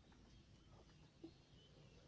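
Near silence: faint outdoor background with one soft click a little past the middle.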